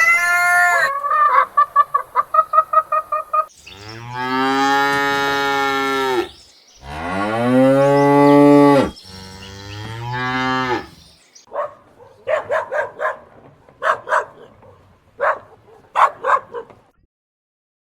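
Cow mooing: three long, low moos, the last one shorter. Before them are the end of a rooster crow and a quick run of hen clucks. After them comes a string of short fowl calls.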